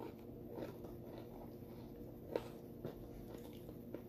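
Quiet close-up chewing and mouth sounds of a person eating a burger, with a few soft wet clicks, the sharpest about two and a half seconds in, over a faint steady low hum.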